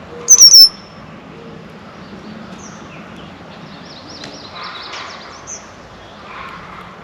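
Small songbirds calling: a loud, sharp burst of three quick high notes about half a second in, then a run of thin, high chirps a few seconds later.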